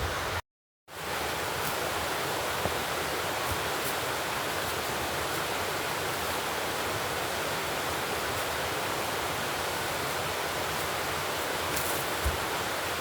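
Steady, even rushing noise with no rhythm or pitch. It cuts out to silence for a moment just under a second in, then resumes unchanged, with a faint tick or two later on.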